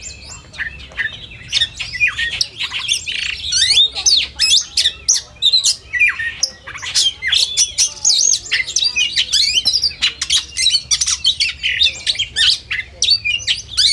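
Oriental magpie-robins singing a fast, dense, varied song of whistled glides, chattering and harsh squawky notes, with several birds overlapping.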